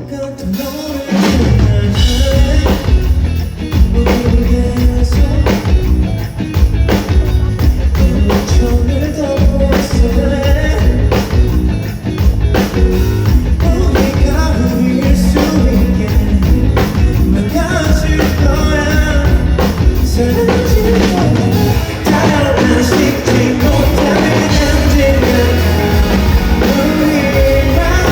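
Live rock band playing, with drum kit, bass and a singer; the full band comes in with the drums about a second in and plays on steadily.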